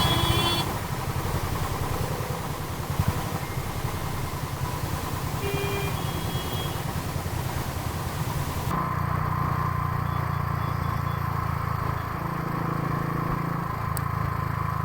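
Motorcycle engine running steadily under way, the even low pulsing of a single-cylinder Royal Enfield Thunderbird 350, with wind and road noise; the sound changes abruptly about two-thirds of the way through.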